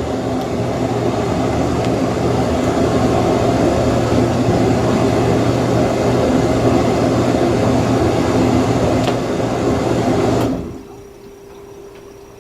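Haier HDC1804TW countertop portable dishwasher running mid-cycle: a steady rush of spraying water over a motor hum. It stops abruptly near the end, leaving only a faint low steady tone.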